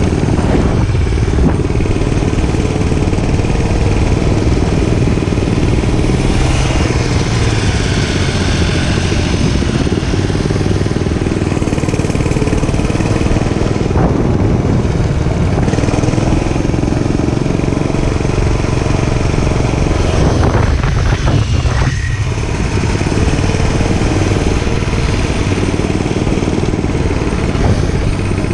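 Gasoline dirt bike engine running steadily while riding, with a brief sweep in pitch about three-quarters of the way through.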